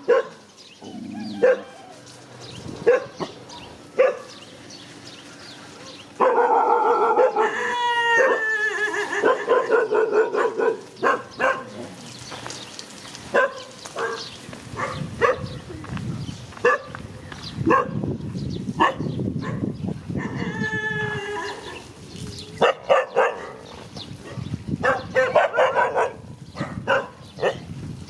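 Dogs barking in a warning confrontation: sharp barks at intervals, with a longer wavering howl-like outburst about six to eleven seconds in and further bursts of barking near the end.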